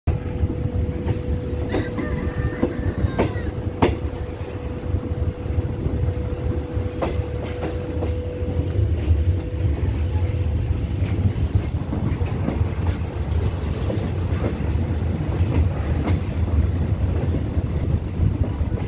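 Thai commuter train's passenger carriages running along the track, heard through an open carriage window: a steady low rumble with a cluster of sharp wheel clacks over rail joints and points in the first few seconds and another about seven seconds in. A thin steady wheel squeal on the right-hand curve fades out about halfway through.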